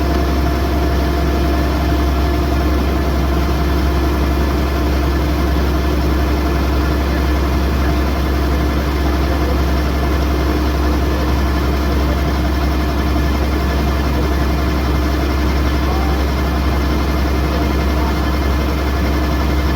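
Kubota DC108X combine harvester's diesel engine and machinery running steadily at constant speed, a loud, even drone that holds the same pitch throughout.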